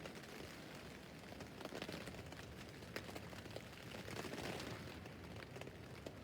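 Rain falling on a tent roof: a steady hiss of rain with many single drops ticking on the fabric, growing heavier briefly twice and with one sharper drop about three seconds in.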